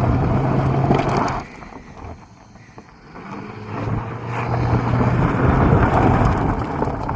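Ford Thunderbird driving off under acceleration, engine and road noise with wind buffeting the microphone; the sound drops a little over a second in and builds again from about three seconds.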